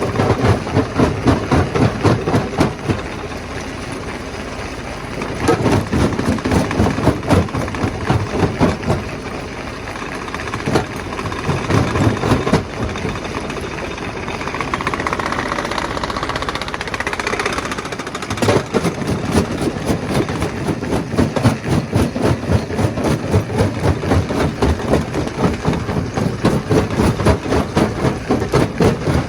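Stone crusher machine running, with a dense, rapid clatter under a machinery drone. The clatter comes and goes in spells, then runs without a break from about two-thirds of the way through.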